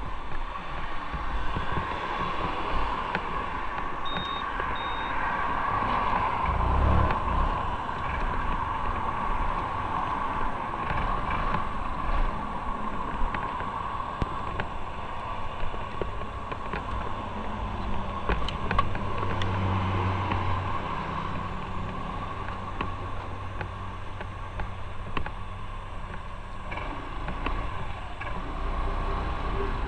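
Motorcycle on the move: a steady rush of riding wind over the microphone, with the engine's low drone underneath.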